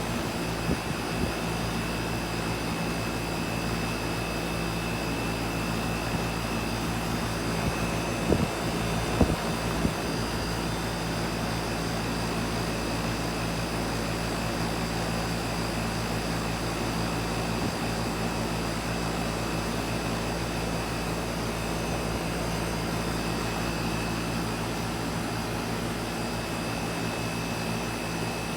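3-ton Miller air conditioner running steadily: an even low hum with a rush of air and a faint high whine. There are a few light knocks about eight to nine seconds in.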